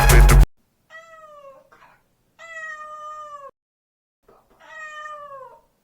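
Domestic cat meowing three times, each meow about a second long and falling in pitch at the end; the first is fainter. A burst of music cuts off just before the first meow.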